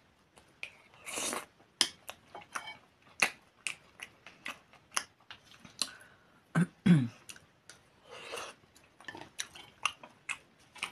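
Close-miked mouth sounds of someone eating soft boiled dumplings with sour cream: wet chewing and lip smacks as a string of short, sharp clicks, two soft breaths, and a brief falling hum about seven seconds in.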